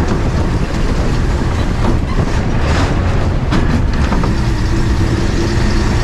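Steady loud rumble of a moving vehicle, with a few short clicks and squeaks about halfway through and a steady hum coming in after that.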